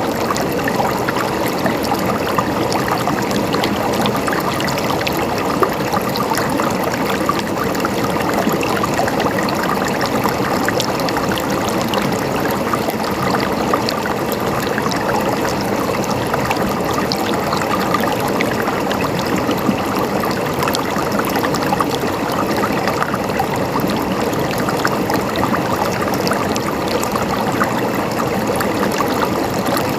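Running water in a stream, a steady gurgling with many small splashes.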